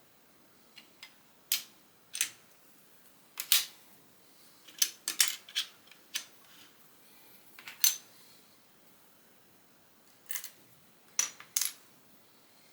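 Plastic Lego pieces clicking and clattering as they are handled and snapped together, about a dozen sharp clicks at irregular intervals.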